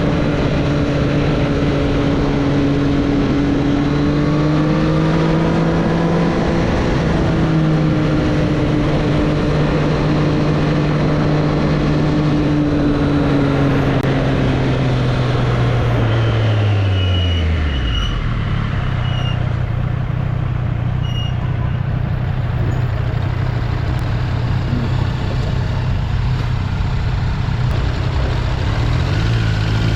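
2024 Triumph Street Triple's three-cylinder engine running at steady revs, then the engine note falls about halfway through as the bike slows, settling to a lower steady idle-like note; near the end the revs begin to rise again.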